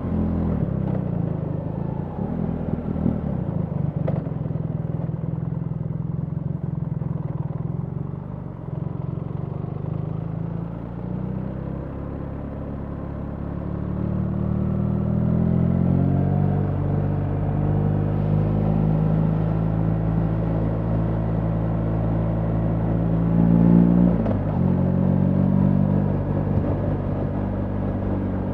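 BMW R 1300 GS boxer-twin engine running while riding, heard from the rider's position. Its pitch climbs steadily as the bike accelerates about halfway through, then drops briefly and picks up again near the end.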